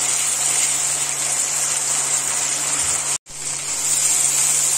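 Ground mustard-garlic spice paste sizzling in hot oil in a frying pan, a steady loud hiss with a faint low hum underneath. It cuts out for a moment about three seconds in.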